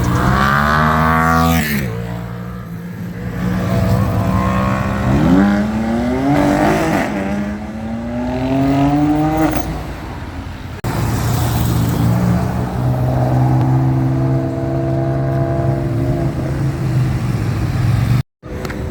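Supercar engines revving hard under acceleration, the pitch climbing in several sweeps and dropping back between them, then a steadier high engine note. The sound breaks off abruptly about eleven seconds in and again just before the end.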